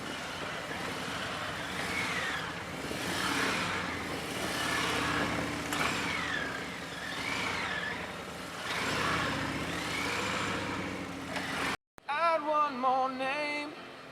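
Police motorcycle sirens wailing, several slow rising-and-falling tones overlapping, over the noise of motorcycle engines. The sound cuts off abruptly about twelve seconds in, and a song with singing follows.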